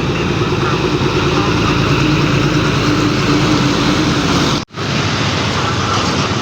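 Heavy truck diesel engine running steadily under a dense rushing noise, cut off abruptly about three-quarters of the way through, with a similar engine sound picking up straight after.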